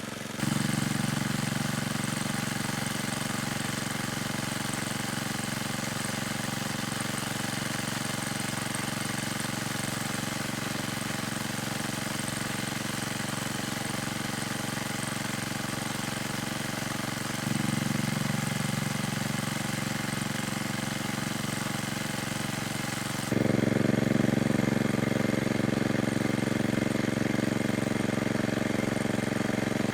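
A small engine running steadily with an even hum. Its loudness steps up suddenly about two-thirds of the way through and again a few seconds later.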